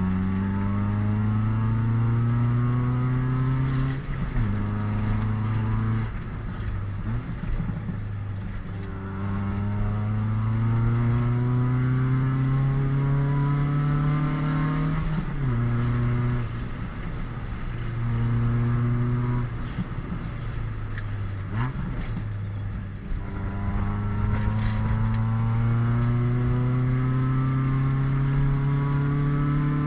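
Honda B20 VTEC swap engine (B20 block with a B16 VTEC head) pulling hard through the gears. Its note climbs steadily with the revs and drops sharply at each shift, several times over.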